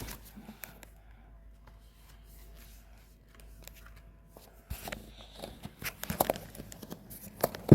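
Handling noise from a phone held by a toddler: after about four quiet seconds with a faint steady hum, fingers rub and knock near the microphone with irregular rustles and clicks.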